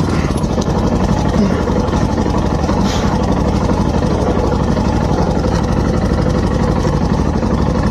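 Motorcycle engine running at a steady speed, without clear revving, while the bike's back wheel is bogged in mud.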